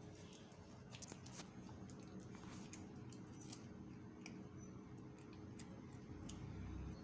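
A cat chewing fried chicken: faint, irregular crisp clicks and crunches over a steady low hum.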